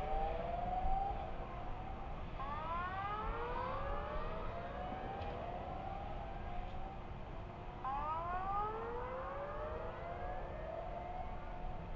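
Several warning sirens sounding at once, overlapping, each rising in pitch over a couple of seconds and then starting again, over a low rumble.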